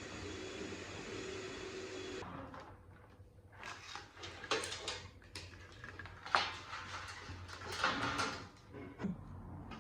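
A steady machine noise cuts off about two seconds in. Then come scattered clicks, knocks and scrapes of metal and plastic parts being handled on a workbench, with one sharp knock past the middle.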